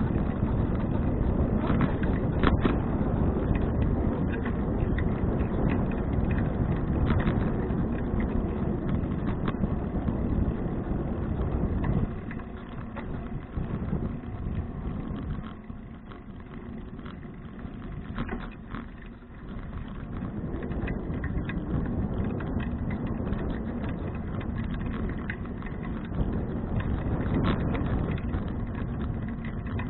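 Riding noise from a touring bicycle on the move, heard through a handlebar-mounted action camera: a steady rush of wind and tyre noise with scattered small clicks and rattles. The noise drops about twelve seconds in and builds again after about twenty seconds.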